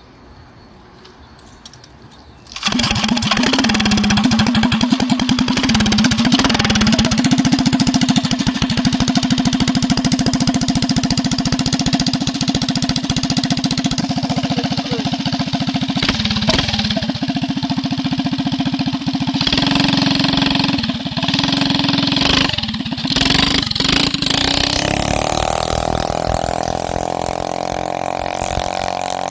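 Four-stroke mini bike engine running hard at a steady, held pitch. It comes in abruptly about two and a half seconds in and eases to a lower, quieter note near the end.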